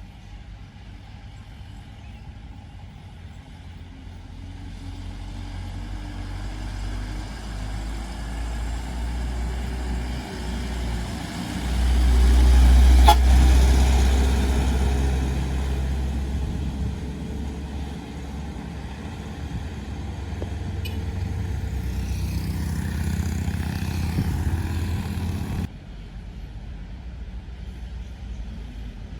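Heavy truck engine running as the truck drives by on the road, growing louder to a peak about twelve seconds in and then easing off. About 26 seconds in the sound drops abruptly to quieter road noise.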